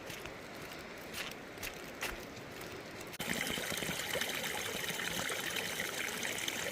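Soft, steady water sounds with a few light clicks, then an abrupt cut about three seconds in to the louder, steady running and trickling of a forest creek.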